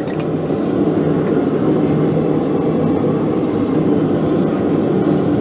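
A forge running: a steady, low rushing noise.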